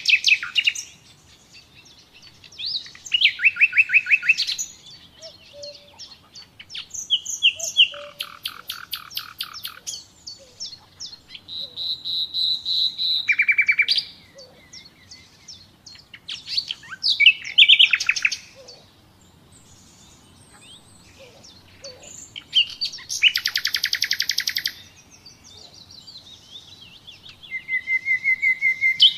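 Common nightingale singing in separate phrases of fast repeated notes and trills, a few seconds apart with short pauses between. Near the end comes a run of whistled notes that grows louder.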